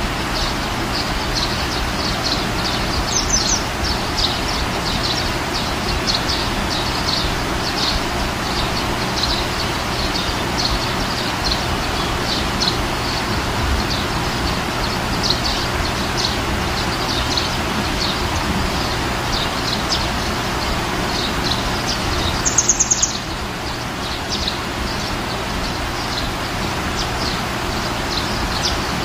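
Nature ambience: a steady rushing hiss with birds chirping, short high chirps repeating about twice a second, and one brief louder, higher chirp a little after two-thirds of the way through.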